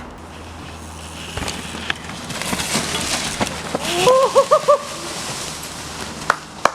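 Mountain bike riding down a dirt trail: a steady rush of tyre and wind noise with a few sharp knocks. About four seconds in comes a short, quick run of high-pitched giggling.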